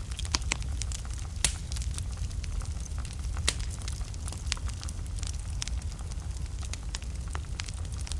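Wood fire burning in a fireplace: a steady low rumble of flame with irregular sharp crackles and pops of burning wood, two louder pops about 1.5 and 3.5 seconds in.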